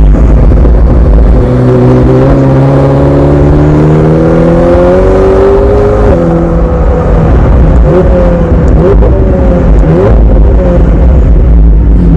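McLaren 720S twin-turbo V8 accelerating hard, its pitch climbing for several seconds. About six seconds in the pitch drops sharply, and the engine then runs at a steadier pitch.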